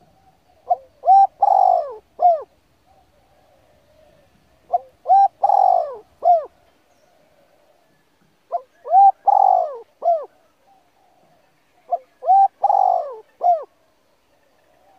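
A bird calling: the same short phrase of a few arching notes repeated four times, about every four seconds.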